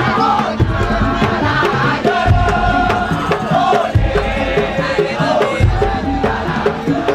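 Madurese tong-tong (daul) percussion ensemble playing: deep drum strokes about every second and a half to two seconds, dense clacking percussion, and a wavering melody line over them.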